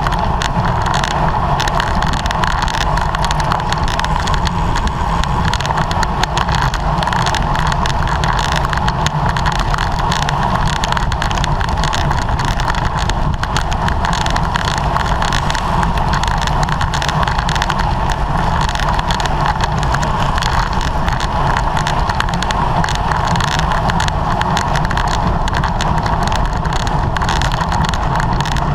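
Steady rush of wind and road noise from a racing bicycle ridden at speed, with wind buffeting the microphone throughout.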